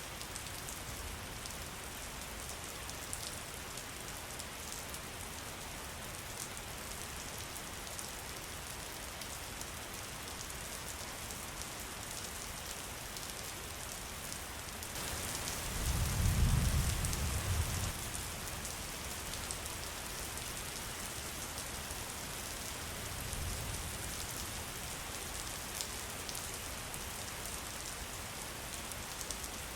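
Steady rain: a dense, even hiss of drops. A low rumble swells and fades about halfway through, and a fainter one follows a few seconds later.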